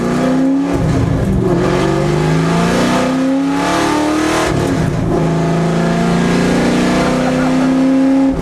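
Straight-piped engine of a 1989 Fox Body Mustang race car accelerating hard through the gears. Its pitch climbs in each gear and drops back at upshifts about one, three and five seconds in, then pulls in one long rise near the end.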